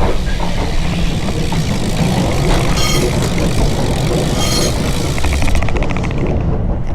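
Wind buffeting the microphone and road noise from a moving bicycle, with traffic around. Near the end a rapid, even ticking sets in, like a bicycle freewheel clicking as the rider coasts.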